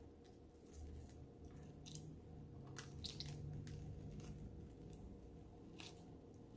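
A person chewing food close to the microphone, with irregular small mouth clicks and soft wet chewing sounds.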